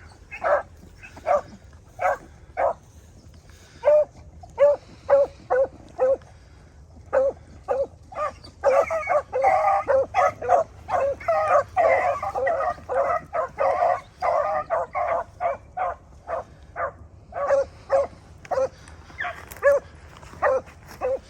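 A pack of beagles giving tongue on a rabbit: short, separate bawling cries at first, then several dogs overlapping in a thick chorus in the middle, thinning out again toward the end.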